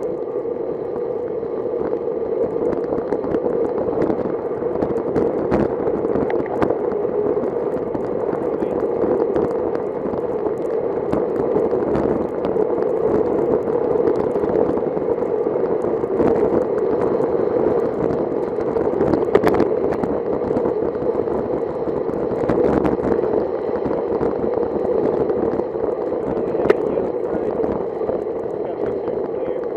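Steady rush of wind and wet-road tyre noise from a bicycle being ridden in the rain, with many small scattered clicks and crackles.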